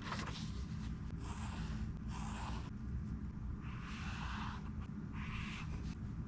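A pen or marker drawing across a book page in five separate scratchy strokes, each under a second long, with a steady low hum beneath.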